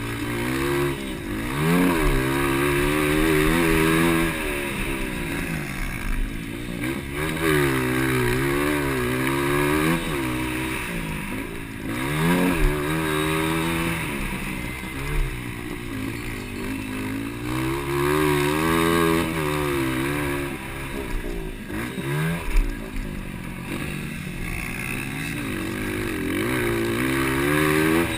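Dirt bike engines of a 200cc motocross race revving hard, their pitch climbing and dropping again and again through the whole stretch as the riders accelerate, shift and back off for jumps and corners.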